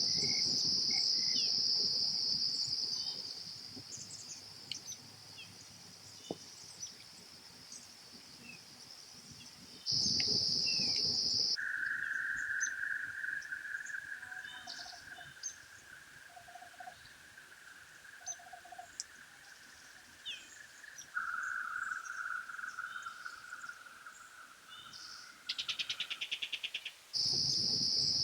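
Insects trilling in steady, continuous tones. A high trill comes and goes, a lower trill holds through the middle and drops slightly in pitch about two-thirds of the way in, a fast pulsing buzz sounds near the end, and the high trill returns.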